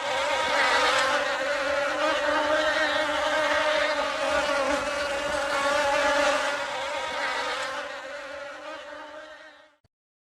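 A flying insect buzzing steadily, its wingbeat hum wavering slightly, then fading out near the end.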